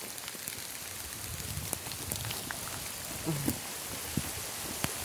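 Light rain just beginning to fall: a steady hiss with scattered ticks of single drops. A brief voice-like sound comes about three seconds in.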